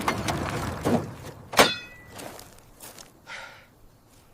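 A clattering thud that dies away, a knock about a second in, then a sharp metallic clank that rings briefly about one and a half seconds in. Faint soft hisses follow near the end.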